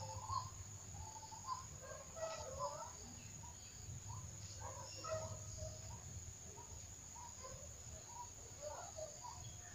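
Faint outdoor background of short, scattered bird chirps over a low steady hum.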